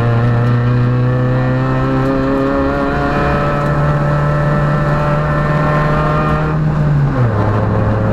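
Peugeot rally car's engine pulling hard, its pitch climbing slowly and steadily under acceleration, then dropping abruptly about seven seconds in as the driver lifts off or changes gear.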